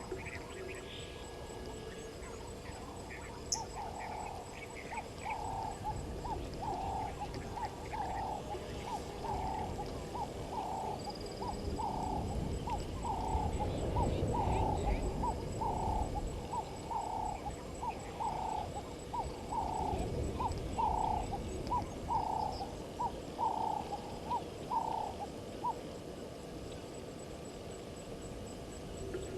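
A wild animal calling in a long, even series of short hoot-like notes, about one a second, for some twenty seconds. A low rumble swells beneath it midway.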